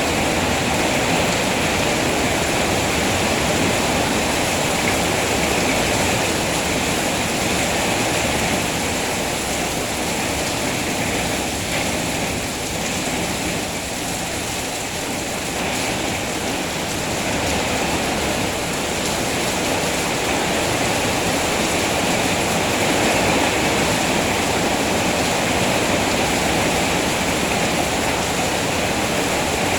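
Heavy rain falling steadily, an even rushing hiss of water, easing slightly for a few seconds near the middle.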